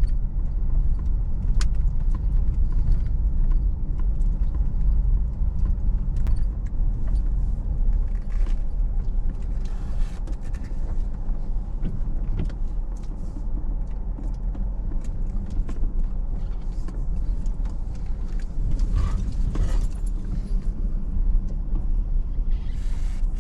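Car driving: steady low engine and road rumble heard from inside, with scattered small knocks and rattles.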